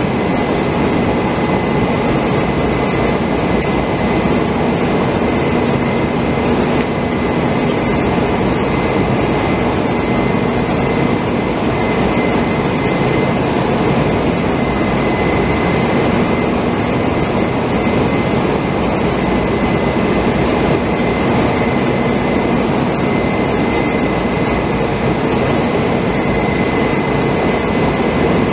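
Steady, loud machinery noise with a constant low hum and a thin high whine, unchanging throughout.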